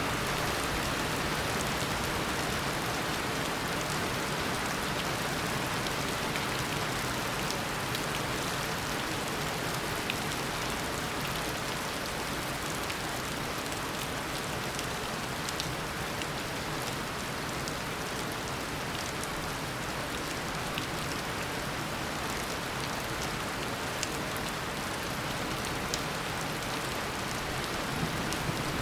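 Heavy tropical rain falling steadily, a dense even hiss with individual drops ticking through it.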